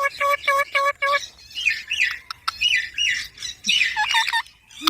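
Baby green parrot calling: a quick run of about eight short, identical chirps, then a series of higher, harsher squawks that fall in pitch.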